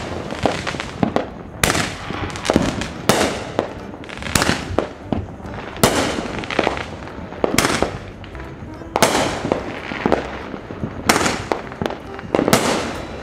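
Aerial firework shells bursting one after another overhead, a sharp bang about once a second, each trailing off as it fades.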